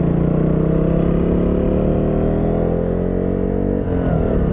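Motorcycle engine running under throttle, its pitch climbing steadily for about four seconds, then dropping sharply near the end and settling lower.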